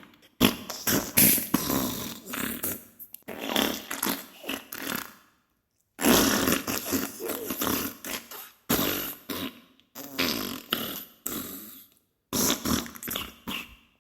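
Diarrhea sound effect: farting and spluttering in rapid, irregular bursts. The run breaks off in brief silences about five and a half seconds in and again about twelve seconds in.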